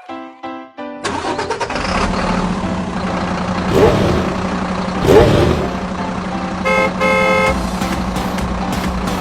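A vehicle engine sound effect runs steadily, with two short horn honks about two-thirds of the way through, the second one longer. A brief musical jingle plays in the first second.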